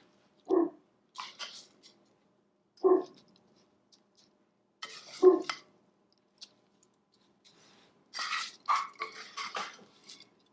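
A spoon scraping and packing a sticky birdseed-and-gelatin mixture into cookie cutters, with a scattering of small scrapes and clicks and a longer spell of scraping near the end. Three short pitched sounds stand out, about two and a half seconds apart.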